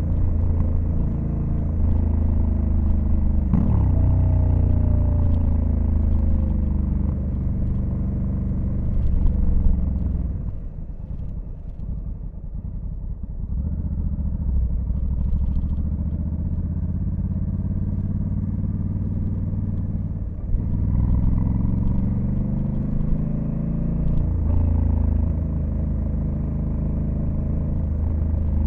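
Honda Africa Twin CRF1100L's parallel-twin engine running under way, heard from on the bike. Engine speed falls after a change a few seconds in, and the engine goes quieter while easing off around ten to thirteen seconds. After a brief break about twenty seconds in it pulls strongly again.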